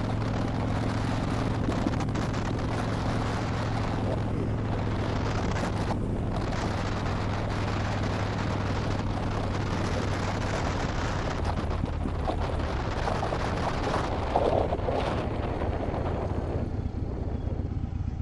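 Harley-Davidson Dyna Wide Glide's 103 cubic-inch V-twin running at a steady cruise through Vance & Hines slip-on mufflers with the baffles taken out, with wind rushing over the helmet microphone. The steady engine note turns rougher about ten seconds in, and the wind noise eases near the end.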